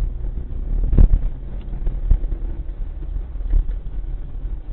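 Heavy low rumble of a vehicle with wind buffeting the microphone, and a sharp knock about a second in, with lighter knocks later.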